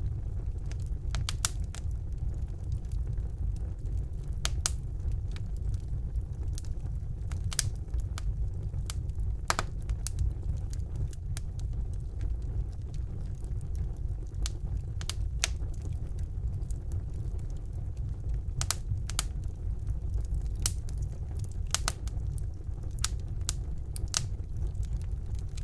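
Fire burning in a fireplace: sharp, irregular crackles and pops over a steady low rumble of flames.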